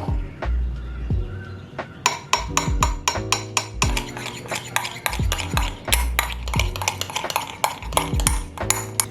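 Kitchen utensil clicking rapidly against dishware, several quick clicks a second from about two seconds in, over background music.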